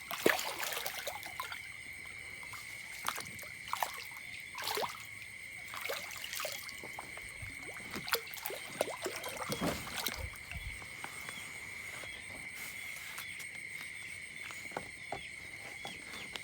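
Water splashing and trickling in short irregular bursts, over a steady high-pitched tone.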